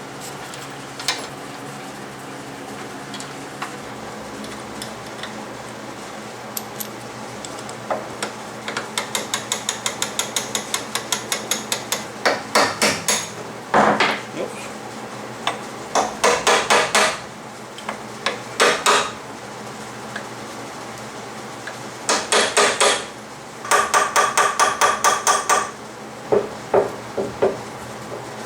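Hammer striking metal in several runs of fast, ringing blows, about five a second, with single knocks between. The blows are driving a bearing housing off a shaft of a Yates American J180 planer.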